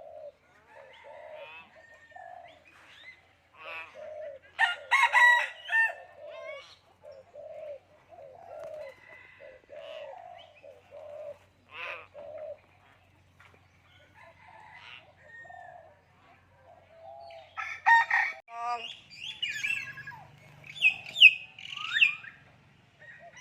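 Common hill myna calling: a run of short, low notes about twice a second, with louder whistles and squawks about five seconds in and again in a busier burst near the end.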